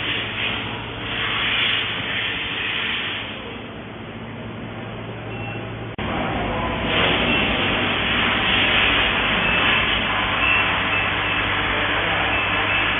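Small gold melting furnace running with a steady low hum under a noisy rush of machine sound. The sound drops back for a few seconds, then cuts in suddenly louder about six seconds in.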